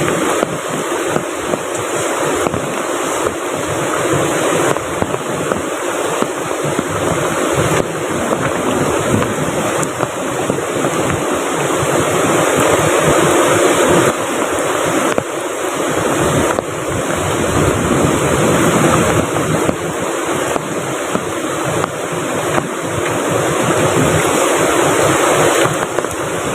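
Steady rushing of a river close by, mixed with heavy rain.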